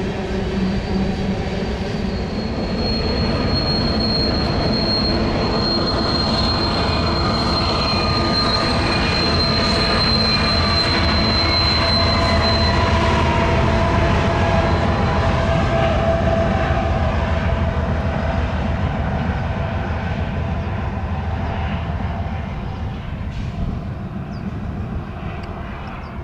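Freight train rolling past with a steady rumble of wheels on rail and high steel wheel squeal. Squealing tones slide down in pitch midway while a low diesel engine drone swells, and the noise fades near the end.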